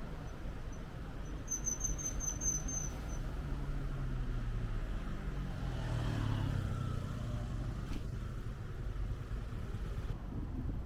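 Street traffic noise with a low rumble on the microphone; a car passes about midway, rising and then fading. A brief run of rapid high-pitched ticks sounds near the start.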